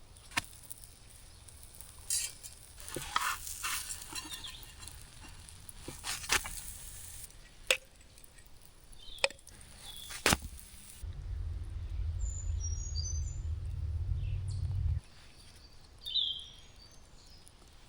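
Forks clinking and scraping on plates during a meal, a scatter of separate light clicks. A low rumble comes in for a few seconds past the middle, and a bird chirps once near the end.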